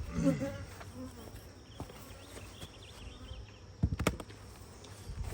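Honeybees buzzing steadily around an opened hive. A quick cluster of sharp knocks about four seconds in is the loudest sound.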